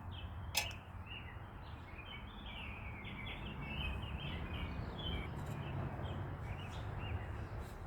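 Small birds chirping in quick short notes throughout, over a steady low background rumble. A single sharp click about half a second in.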